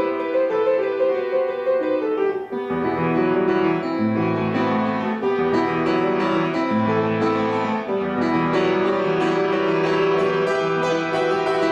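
Solo acoustic piano playing a flowing classical piece, with steady runs of notes and deeper bass notes joining about three seconds in.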